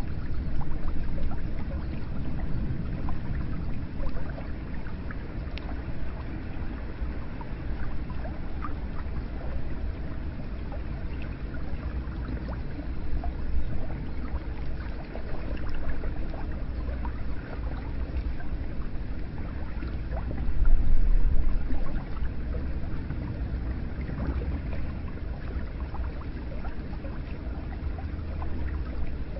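Hot-spring water pouring and splashing into an onsen bath: a steady low rush of water with many small drips and splashes, growing louder for a moment about twenty seconds in.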